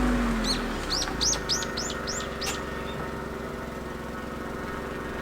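A small bird chirping a quick run of about eight short notes in the first two and a half seconds, over a steady low hum. A vehicle sound fades away at the start.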